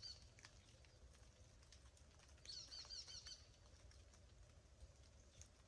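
Near silence with a small songbird singing faintly: a short run of quick, high chirps about two and a half seconds in.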